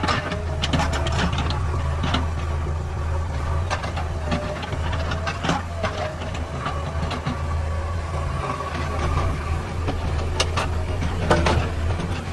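Diesel engine of a JCB 3DX backhoe loader running steadily under work, with sharp metallic clanks every second or two and a faint wavering whine.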